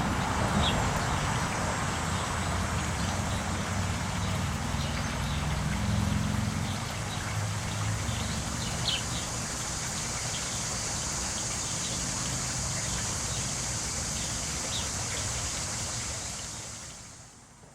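Steady hiss of water from a garden sprinkler and bird bath, with short bird chirps scattered through it, fading out near the end.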